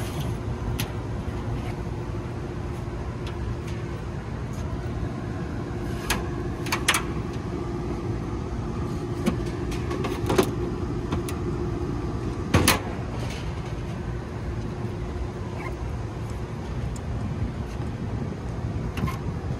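Steady low mechanical hum of rooftop air-conditioning equipment running, with a held low tone under it, broken by a few sharp clicks and knocks, the loudest about two-thirds of the way through.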